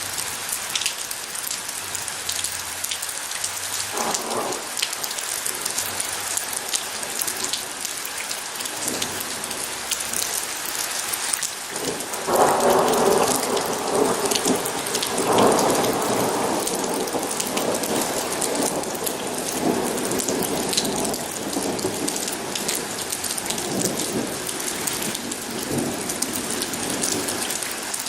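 Steady rain falling, with thunder: a short distant rumble about four seconds in, then a louder rolling rumble from about twelve seconds in that slowly fades away.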